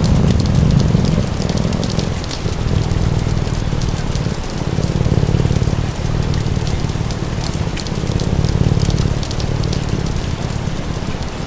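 Steady rain falling, with the sharp pops and crackles of a wood fire scattered throughout and a strong low rumble underneath.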